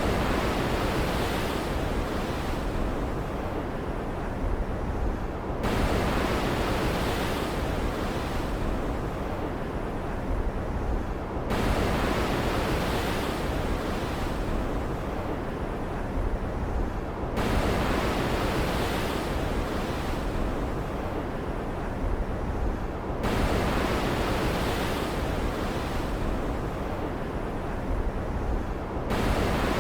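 Storm-at-sea ambience: a steady rushing of ocean waves with wind and rain hiss. It runs as a short loop, the bright hiss starting afresh abruptly about every six seconds.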